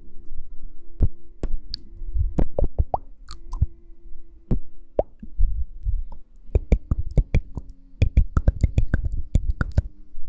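Irregular sharp clicks and soft taps close to the microphone, some in quick clusters, over a faint steady hum.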